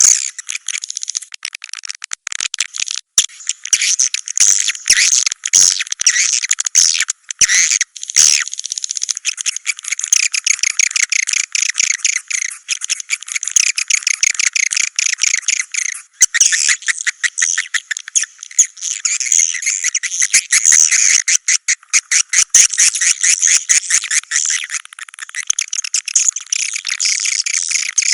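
Swiftlet calls: a dense, high-pitched twittering of rapid chirps and clicks, unbroken but for brief dips, in the manner of the lure recordings played in swiftlet nesting houses.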